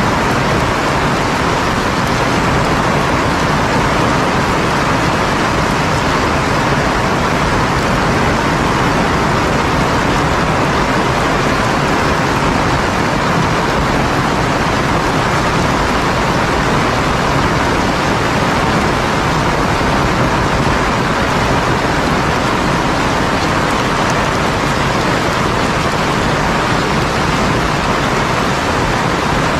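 Heavy rain falling hard, a loud, dense and unbroken hiss with no thunderclaps.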